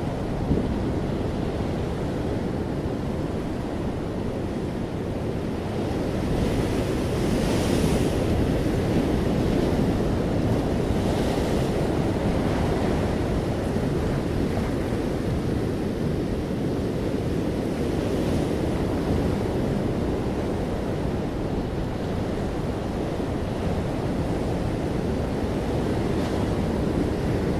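Ocean surf: a steady low rush of waves, with a hissing wash of breaking water swelling up a few times.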